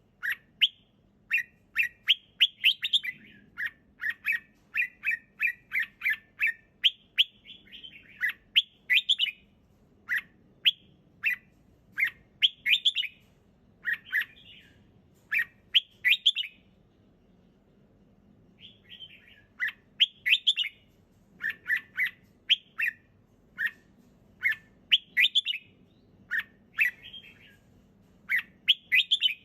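Red-whiskered bulbul singing: short, bright chirping phrases repeated in quick series, with a pause of about two seconds a little past the middle.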